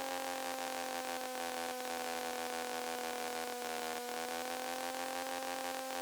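Kitfox light aircraft's engine and propeller droning steadily as heard from the cockpit, its pitch easing down slightly.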